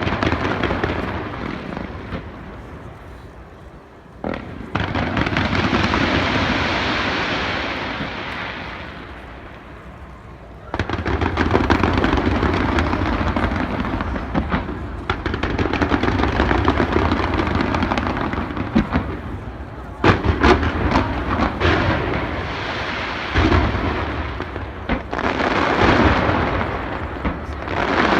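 Aerial fireworks going off in waves of booms and crackling. After about eleven seconds they run on without a break, with strings of sharp, rapid crackles in the last third.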